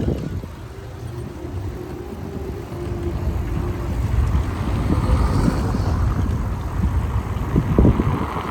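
City street traffic with wind rumbling on the microphone, growing louder after about three seconds.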